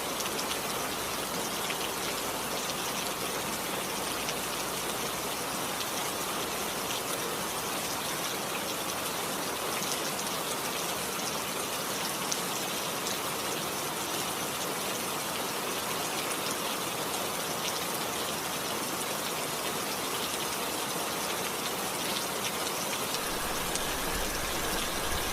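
Steady heavy rain falling, a continuous even hiss with scattered drop ticks.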